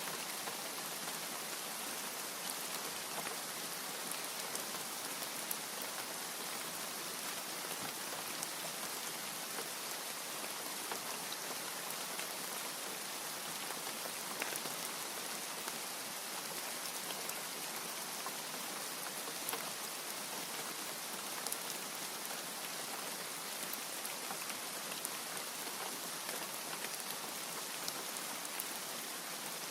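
Steady rain falling, an even wash of noise with scattered sharp drop hits, and no thunder.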